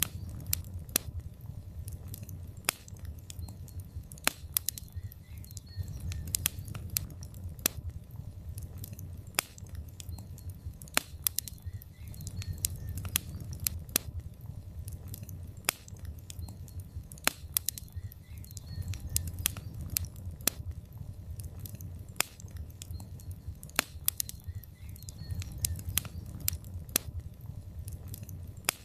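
Wood logs burning in a fireplace: irregular sharp crackles and pops, several a second, over a low, surging rumble of the flames.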